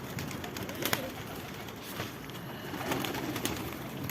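Domestic pigeons cooing, with a few sharp clicks.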